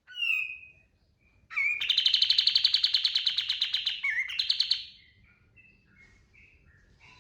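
Kapas tembak songbird singing: a short whistled call, then a loud, very rapid trill about three seconds long with a brief break near its end, followed by soft scattered notes.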